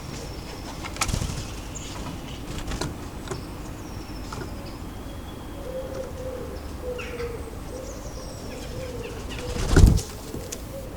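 Wood pigeon wings flapping in short sudden bursts at the feeder, once about a second in and loudest near the end. A low cooing runs through the second half, with brief high chirps from small garden birds.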